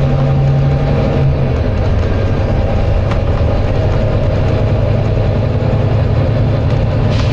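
Volvo B9TL double-decker bus's six-cylinder diesel engine running steadily, heard on board, its note dropping about a second in. A brief hiss of compressed air from the bus's air system comes near the end.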